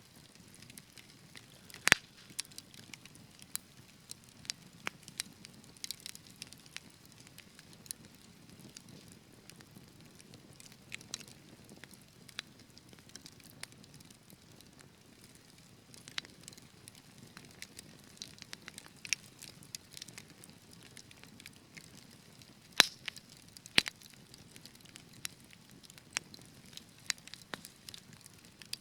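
Wood fire burning in a fireplace, crackling with scattered sharp pops over a soft low rumble of the flames; a loud pop about two seconds in and two more a little past the two-thirds mark.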